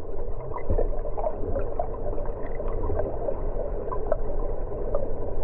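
Floodwater of the River Churn rushing and gurgling at a bridge: a steady wash with constant small bubbling blips over a low rumble.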